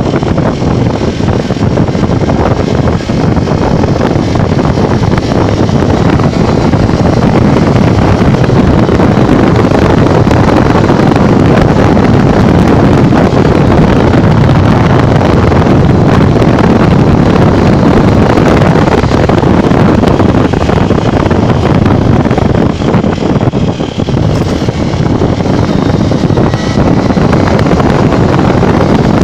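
Steady, loud wind buffeting on the microphone and road rush from a Honda Bros 150 motorcycle riding at speed on the highway.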